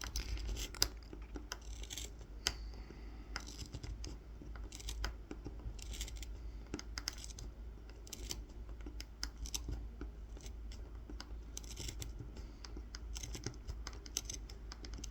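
Kolrosing knife point cutting fine lines into a carved wooden honey dipper: a run of short, irregular scratchy strokes and small clicks.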